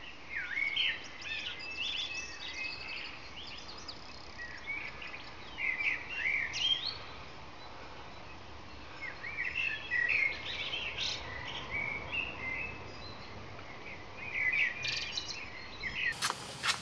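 Small birds chirping and calling in quick, rising and falling whistles over a steady outdoor hiss, with a quieter lull midway. A few sharp clicks come just before the end.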